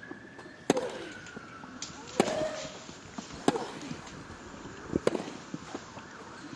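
A tennis rally: tennis balls struck by racket strings in four sharp hits about one and a half seconds apart, the players answering each other. Some of the hits are followed by short grunts from the players.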